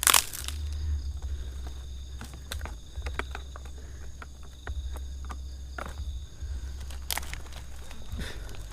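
Rustling and crunching of dry vegetation, with scattered snaps and clicks and a low rumble of handling on the microphone. A steady high-pitched tone runs underneath.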